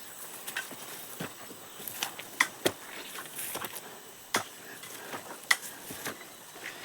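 Footsteps through jungle undergrowth: irregular sharp crackles, roughly one a second.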